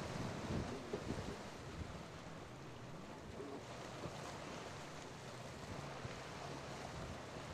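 A passing boat's engine drones steadily and low, over the wash of surf and wind buffeting the microphone.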